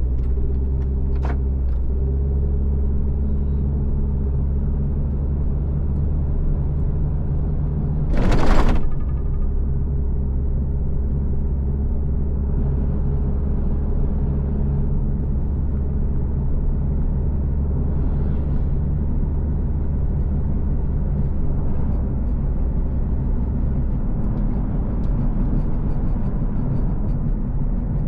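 A car's engine and road noise heard while driving, a steady low rumble with a held engine hum. About eight seconds in comes a brief, loud rushing sound lasting about a second.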